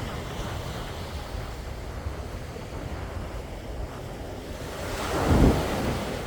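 Sea waves washing in continuously, with one wave swelling and breaking loudest about five seconds in, then subsiding. Wind rumbles low on the microphone underneath.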